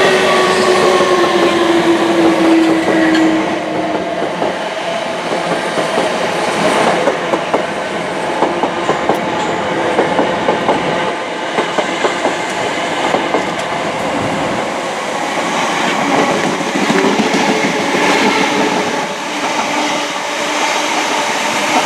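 Passenger train running past close by: a motor whine that falls in pitch over the first few seconds, then a quick run of wheel clicks over rail joints in the middle, over the steady rumble of wheels on rail.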